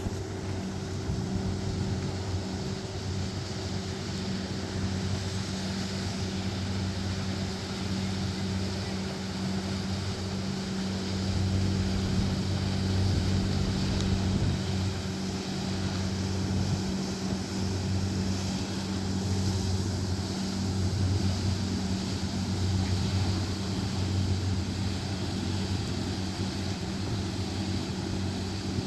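A steady, low engine hum with a slight pulsing beat, getting a little louder in the middle stretch.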